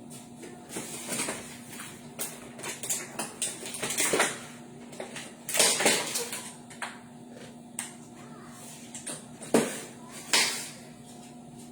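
Dishes, pots and utensils clattering and knocking irregularly, several louder clanks among lighter clicks, over a steady low hum.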